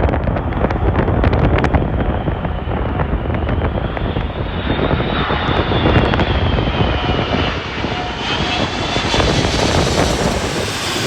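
Jet airliner's engines running loud as it passes, with a high whine that slides up and down in pitch. Wind buffets the microphone in the first couple of seconds.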